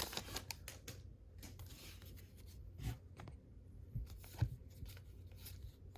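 Faint handling of a pack of baseball trading cards: light rustles and clicks as the cards are slid past one another, with a few soft taps.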